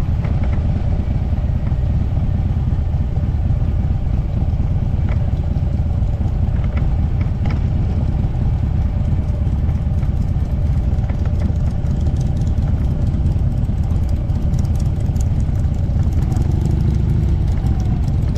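Motorcycle running steadily: a loud, continuous low rumble with no change in pitch.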